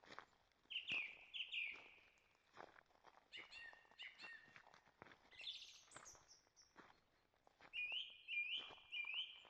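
Songbirds calling in short repeated phrases, two or three quick notes at a time, in several bursts. Footsteps on a forest trail fall about once a second underneath.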